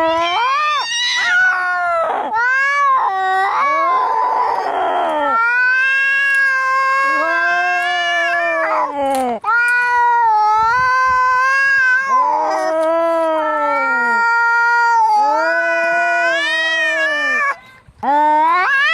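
Angry cats yowling and caterwauling in long, wavering drawn-out howls, the typical sound of cats squaring up to fight. About four seconds in there is a harsh hissing snarl, and near the end the howls break off briefly.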